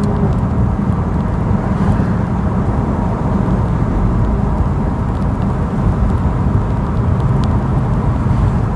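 BMW M3's S65 V8 running through a modified exhaust (stock mufflers, X-pipe close to the headers), cruising at a steady load around 2,800 rpm with an even, low exhaust note.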